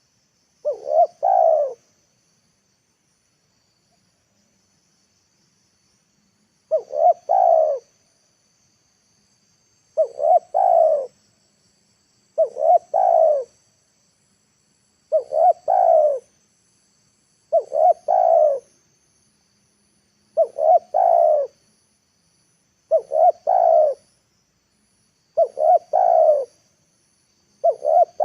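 Spotted dove (tekukur) cooing, a short phrase of a few notes repeated about every two and a half seconds: a decoy bird's call for luring wild doves down. A faint steady high insect drone runs underneath.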